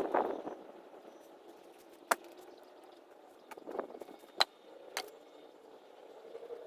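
A few sharp, separate knocks and clicks, spaced a second or two apart, over a faint steady background hum.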